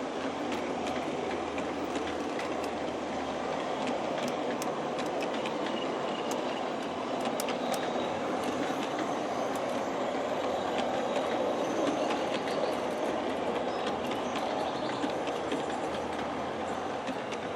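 G scale model passenger train pulled by four USA Trains F3 diesel locomotives running along its track: a steady rumble of motors, gears and wheels with scattered light clicks from the rails, growing a little louder about two-thirds of the way through.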